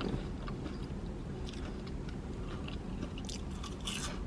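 A person chewing food close to the microphone, with small wet mouth clicks and a short crackle shortly before the end.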